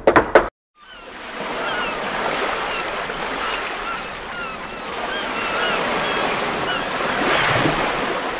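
Beach ambience: surf washing in a steady rush that fades in about a second in and swells near the end, with short high chirps scattered through it.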